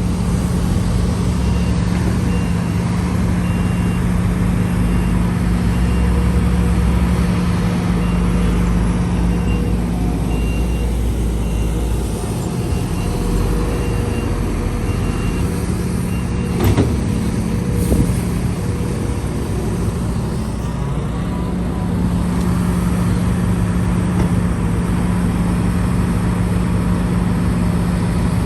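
Heavy diesel earthmoving machinery, an excavator and dump trucks, running steadily with a loud low engine hum. A reversing alarm beeps at an even pace through roughly the first half. Two sharp knocks come a little past halfway.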